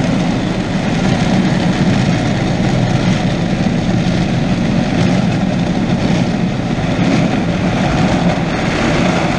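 Automatic drive-through car wash working over the car, heard from inside the cabin: a loud, steady wash of noise from the machinery, water and brushes on the bodywork.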